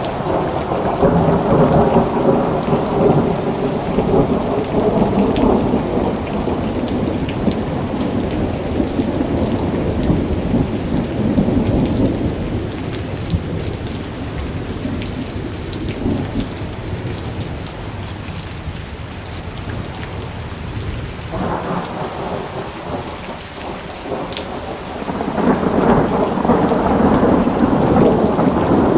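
Steady rain with rolling thunder. A long rumble at the start dies away through the middle, and a fresh rumble builds near the end.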